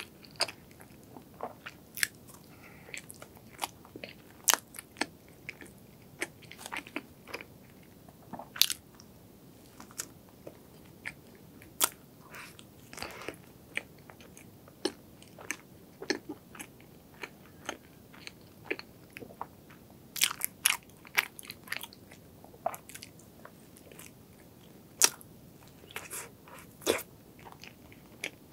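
Close-miked chewing and biting of a soft cream-filled bun, with many irregular sharp wet mouth clicks and smacks.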